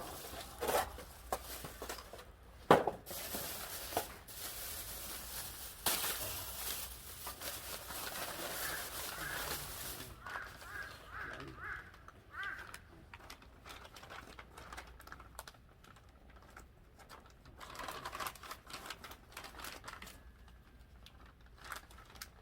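Hand work on a forklift's fuel system: scattered knocks and clicks of tools and metal parts being handled, with a stretch of rustling or crinkling in the first half, then quieter, sparser handling noises.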